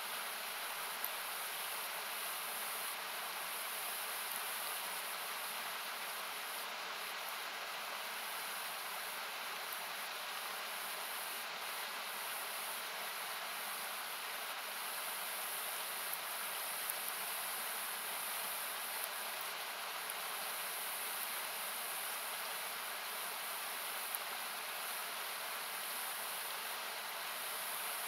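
Steady rush of a nearby river or small waterfall, heard as a hiss-like noise, with a few faint pops from a wood campfire crackling.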